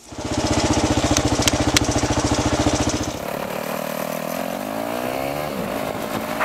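Kawasaki KLR650's single-cylinder engine running close to the microphone with heavy, even firing pulses, with a few sharp clicks in the first two seconds. About three seconds in it turns quieter, and the revs climb, then drop near the end.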